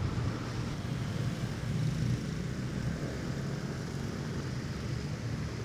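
Motorcycle engine running steadily with a low drone and road and wind noise while riding.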